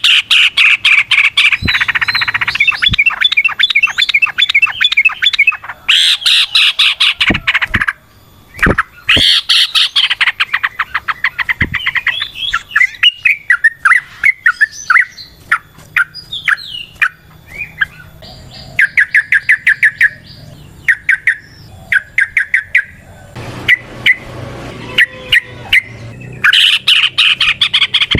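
Yellow-vented bulbul singing a long, rapid chattering song: bursts of fast repeated notes a few seconds long, with short breaks between them.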